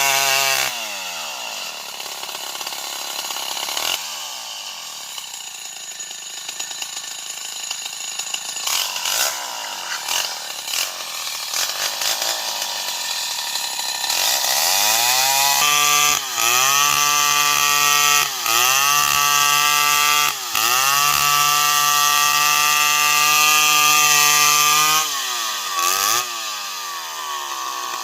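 Stihl 070 chainsaw's single-cylinder two-stroke engine dropping from full throttle to idle, idling for several seconds, then revved back up about halfway through and held at high speed with a few short throttle dips. Near the end it falls back to idle after one more brief blip.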